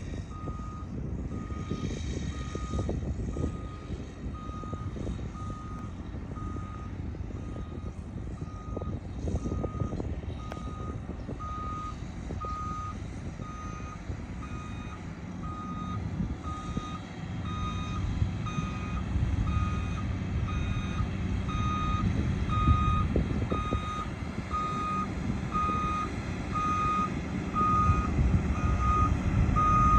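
Dump truck's reversing alarm beeping steadily about once a second as the truck backs up, over the low running of its diesel engine. The beeping and engine grow louder over the second half as the truck comes closer.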